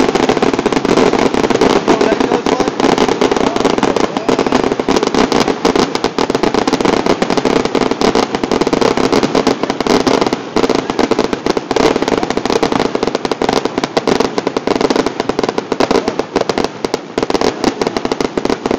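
Fireworks finale barrage: a rapid, unbroken run of overlapping bursts and crackles, loud throughout.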